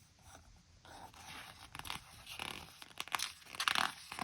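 Paper rustling and crinkling as a picture book's page is handled and turned, in irregular scrapes that grow louder towards the end.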